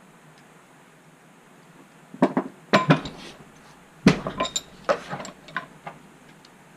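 Metal parts of a restored cast iron Wilton bench vise clanking and clinking as they are handled, about six sharp knocks with a brief ring, starting about two seconds in.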